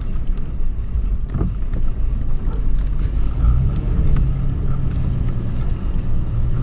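2013 Toyota 4Runner's 4.0-litre V6 engine running while the truck drives over sand dunes, with a constant low rumble. A steady engine note settles in about halfway through.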